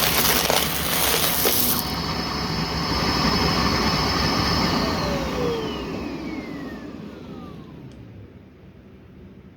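Vacuum cleaner running, with clicks and rattles of debris in the first two seconds. About five seconds in it is switched off, and the motor whine falls in pitch and fades over about three seconds as it spins down.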